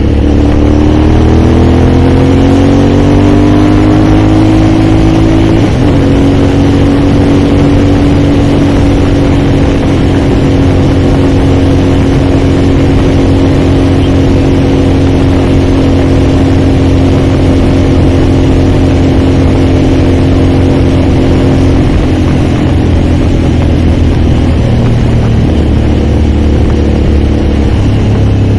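Aprilia Shiver motorcycle's V-twin engine on the move: it rises in pitch through the first five seconds, shifts up about six seconds in, then holds a steady cruise, easing off a little after about twenty seconds.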